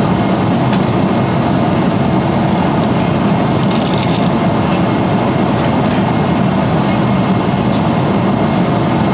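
Steady low rumble of a dinner-cruise boat under way, with a few light clinks of tableware, the clearest about four seconds in.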